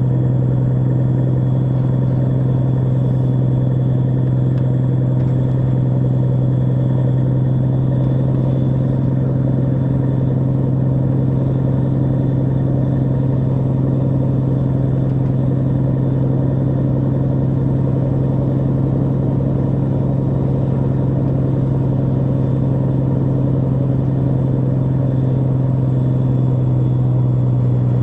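Heavy rotator tow truck's diesel engine running at a steady speed, a constant low drone that does not change.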